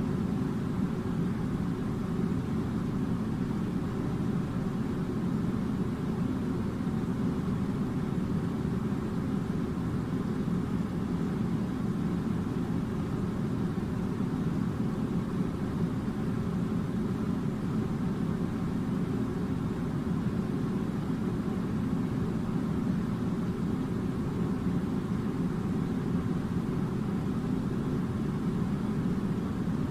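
Air conditioner running with a steady, unchanging low rumble and rush of air.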